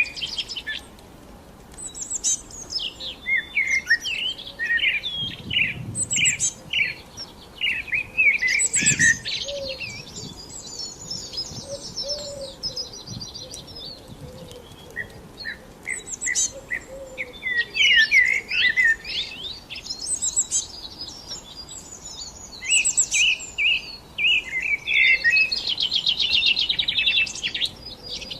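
Several songbirds singing together: many short overlapping chirps and whistled notes, with rapid buzzy trills about a third of the way in and again near the end.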